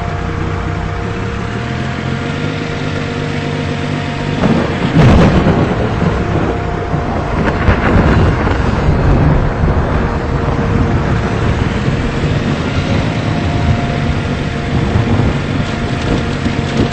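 A thunderclap about four and a half seconds in, rolling on into a rumble that swells again a few seconds later, over steady rain noise and a low steady engine hum.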